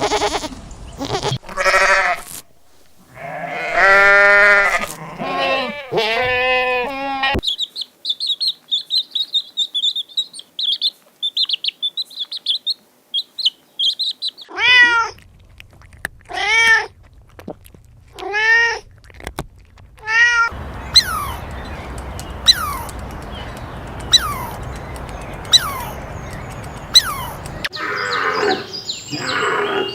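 A string of different animal calls played one after another. First come several pitched calls, then a rapid high trill for about seven seconds. Four arching calls follow, then a run of short falling chirps with sharp clicks.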